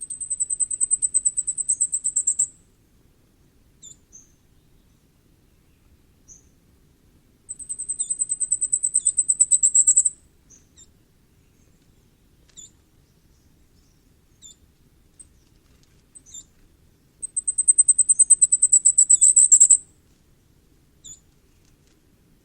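Common firecrest singing: three songs of rapid, very high, thin notes, each about two and a half seconds long and growing louder toward its end, with a few short high call notes in between.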